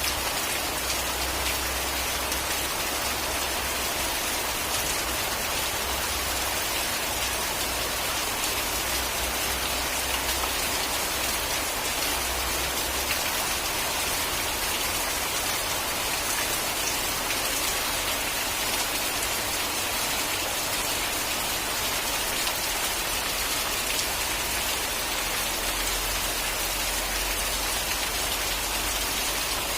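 Steady, heavy rain falling and pattering on surfaces, an even wash of drops with no pauses. A faint low rumble sits underneath and comes and goes.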